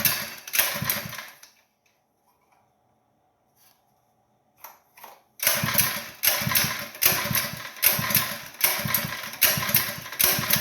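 Trash pump's small gasoline engine being cranked: rough bursts about every half second that stop about a second and a half in, then start again after a pause of about four seconds, never settling into a steady run.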